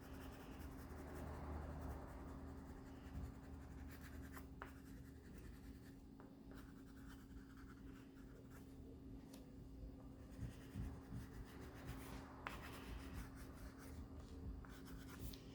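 Faint scratching of a red crayon rubbed on paper in short directional strokes, with a few light taps.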